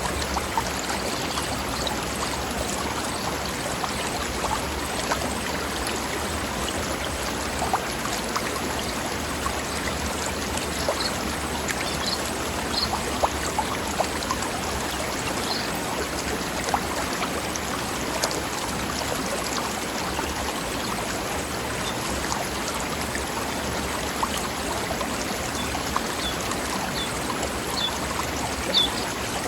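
Mountain stream running over rocks in a steady, splashing babble, with scattered brief louder splashes. A few short, high bird chirps come in about a third of the way through and again near the end.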